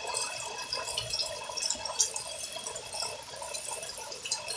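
Water dripping and trickling, with many small, irregular drips.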